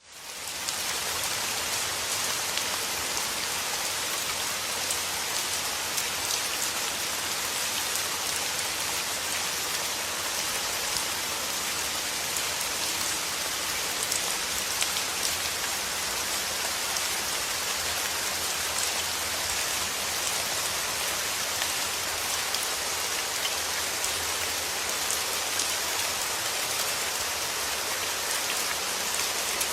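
Steady rain falling on a surface, a dense even hiss of drops with fine ticks of individual raindrops; it fades in over the first moment.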